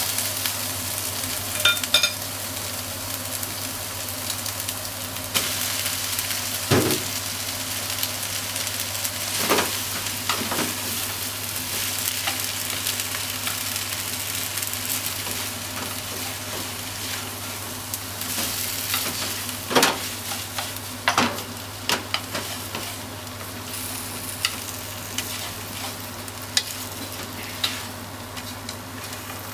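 Pork and onion stir-frying in a nonstick frying pan: a steady high sizzle, broken by sharp clicks and taps as wooden chopsticks toss the food against the pan. The sizzle grows a little softer near the end.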